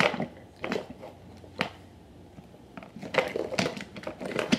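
Toy train cars being handled, clacking and knocking against each other and the floor in irregular sharp clicks.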